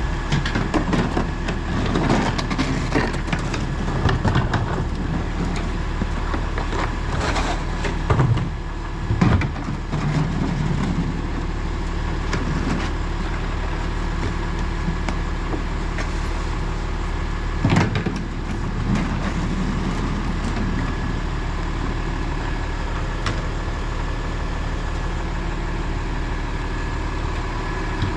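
Autocar ACX rear-loader garbage truck running steadily, with a thin high steady whine over the engine. There are knocks and clatter through the first half, and a few sharp bangs, the loudest about two-thirds of the way in.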